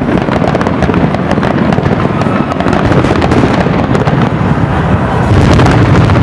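Fireworks display: aerial shells bursting in quick succession with dense crackling throughout, loudest about five seconds in.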